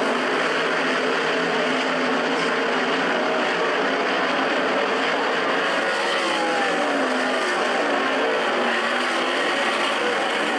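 A field of 360 sprint cars' V8 engines racing around a dirt oval. It makes a steady wall of engine noise, with single engines rising and falling in pitch as they pass.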